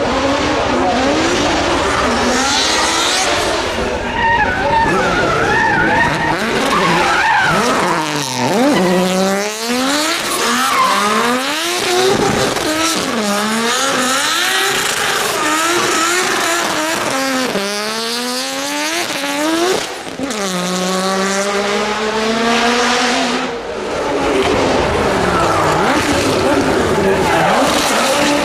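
Racing car engines at full throttle, the pitch climbing and dropping sharply at each gear change, with several cars passing by one after another.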